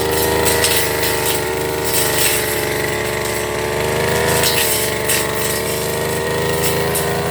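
Firman FGB389FI petrol brush cutter running at high speed, its engine note wavering slightly as it works, with short swishes now and then as the cutting head goes through grass and weeds.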